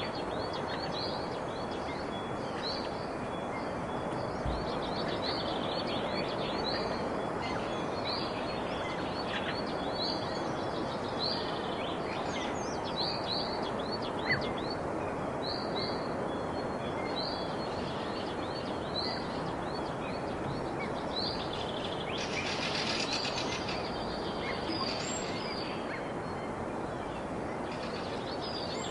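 Small birds chirping, short high notes repeated about once or twice a second, over a steady background hiss. A denser, noisier flurry of higher sound comes a little past the middle.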